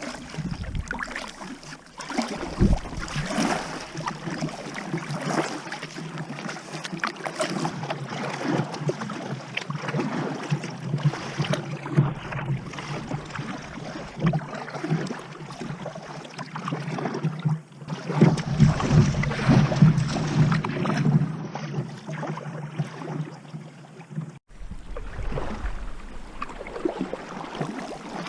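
Kayak on the sea: water splashing and lapping around the hull as it is paddled, with some wind on the microphone.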